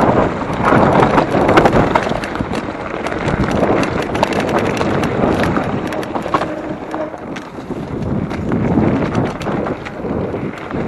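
Mountain bike rattling and clattering down a rough trail, with many sharp clicks and knocks, under a steady rush of wind over the microphone.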